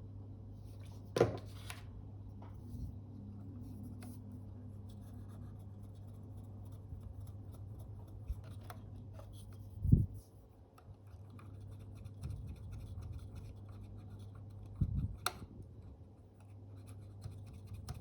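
Faint scratching and small clicks of hand tools working inside a Fuji GA645 camera while sticky glue is cleaned off the shutter flex cable, with a few soft knocks and a steady low hum.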